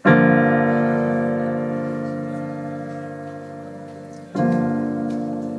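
Piano playing two long chords, about four seconds apart. Each chord is struck and then left to ring and fade slowly.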